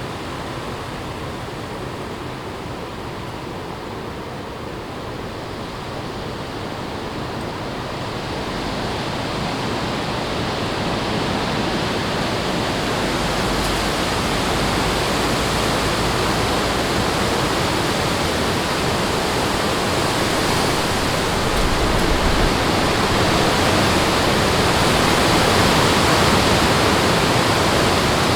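Strong wind rushing through forest trees, a steady rushing noise that builds in strength about a third of the way in and stays loud.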